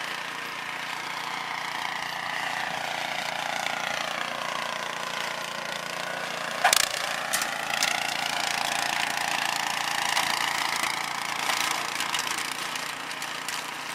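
MTD snowblower engine running steadily, its pitch dipping and rising slightly as it works. A sharp knock about halfway through, followed by a couple of lighter clicks.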